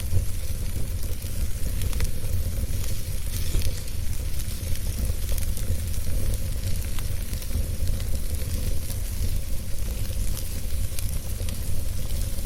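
A fire burning in a fireplace, with a steady low rumble under a hiss and scattered sharp crackles and pops.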